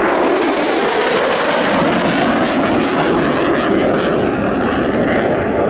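USAF F-35A Lightning II's single Pratt & Whitney F135 turbofan during a high-speed pass: loud, dense jet noise with a rushing hiss that dulls near the end as the jet draws away.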